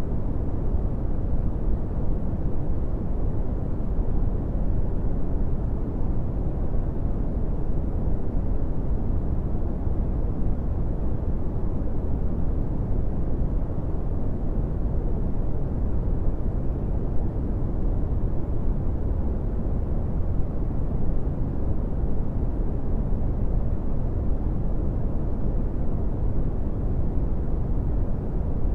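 Brown noise: a steady, deep rumbling hiss with most of its energy in the bass, tapering off in the highs, unchanging throughout.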